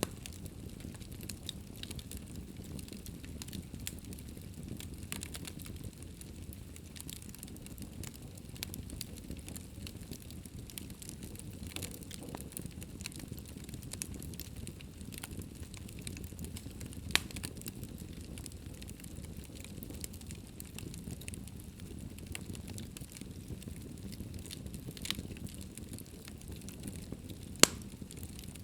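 Wood fire burning in a fireplace: a steady low rumble of flames with frequent small crackles and pops, two of them sharper and louder, one a little past the middle and one near the end.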